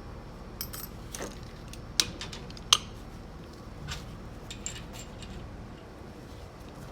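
Light metallic clinks and clicks, about six irregular strikes with the sharpest near the middle: steel and friction clutch plates from an automatic transmission clutch pack being handled and stacked together on the bench.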